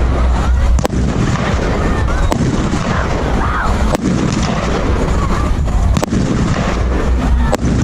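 A 1.3G 88-shot firework cake firing: a continuous barrage of launches and bursts with a deep rumble and a few sharp cracks.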